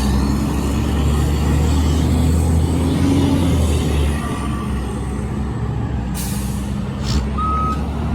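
Heavy vehicle engine running steadily with a deep rumble. There is a short hiss of air about six seconds in and a briefer one about a second later, typical of an air brake.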